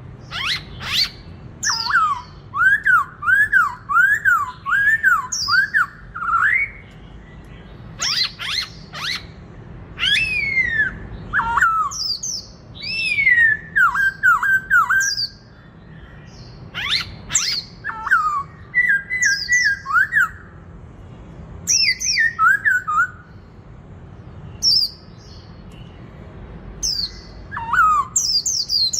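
Black-throated laughingthrush in full competitive song. It gives loud, varied whistled phrases: runs of quick rising-and-falling notes, falling slurred notes and sharp upward sweeps, in bursts with short pauses between them.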